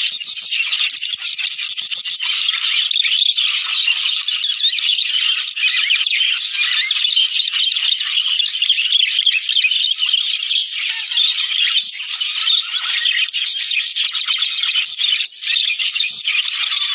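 A flock of budgerigars chattering and warbling without pause, many rapid overlapping high calls. It is the kind of busy flock chatter played to budgies to stimulate them to breed.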